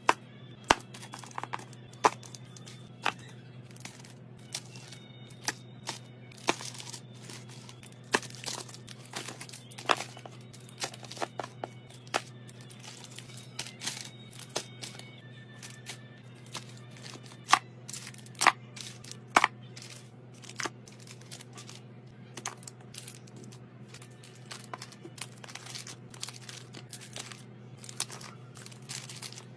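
Snack packets and plastic containers being handled and set down: wrappers crinkling, with frequent sharp clicks and taps at irregular intervals over a steady low hum.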